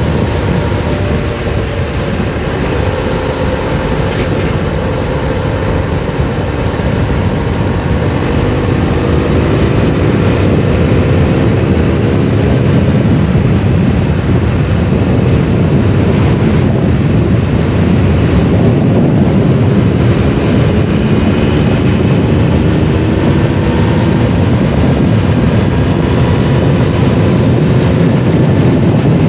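Triumph Explorer 1200's three-cylinder engine pulling the motorcycle along, rising in pitch twice as it accelerates, under steady wind rush on the microphone.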